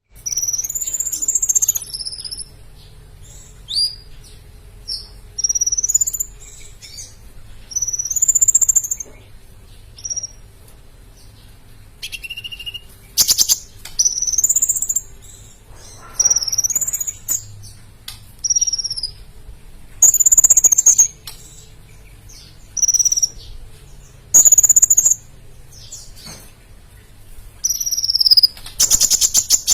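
Sunbird ('kolibri') singing: high, sharp chirps and short slurred whistled phrases in bursts every couple of seconds, with a couple of fast rattling trills, over a faint steady hum.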